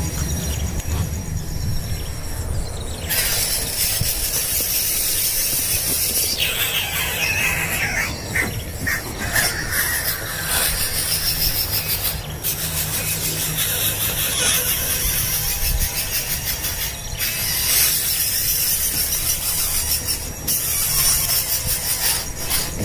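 Fledgling birds begging for food: continuous shrill, high-pitched squealing calls that grow much louder about three seconds in, over a low steady rumble.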